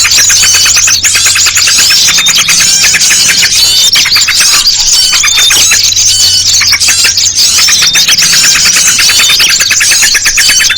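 Bird-lure recording: a dense, loud chorus of small birds chirping and trilling rapidly without a break, with a steady low hum underneath.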